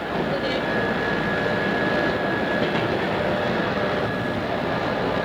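Odakyu 2600 series electric train running: a steady rumble of wheels on the rails with a few faint clicks from rail joints.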